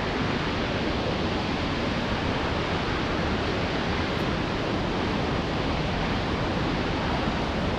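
Steady rushing roar of the Shifen Waterfall, falling water heard as an even, unbroken noise.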